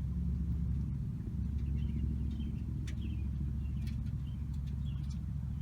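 A steady low rumble of outdoor background noise, with faint bird chirps now and then.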